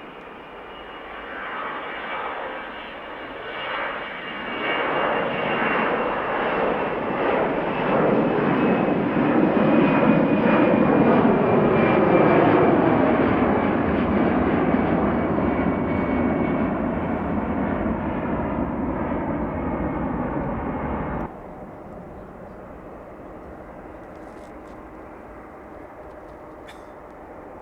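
Jet airliner passing close by, its engine roar building to a peak and then fading, with a whine that falls in pitch as it goes past. The sound cuts off abruptly about two-thirds of the way through, leaving a quieter steady rush.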